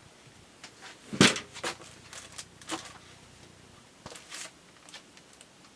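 Light handling noises from craft supplies on a table: a few scattered taps and rustles of paper and small items being moved, the loudest about a second in.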